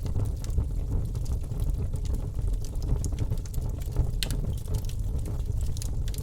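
Wood fire in a fireplace crackling, with scattered sharp pops over a low, steady rumble of flame. The loudest pop comes about four seconds in.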